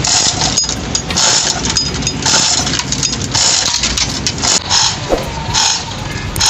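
An engine running with a low rumble, overlaid by a rasping hiss that recurs about once a second.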